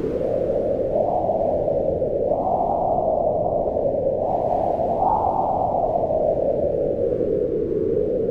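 Wind blowing: a low, hollow rushing that swells and eases, rising in pitch around two and five seconds in and sinking again toward the end.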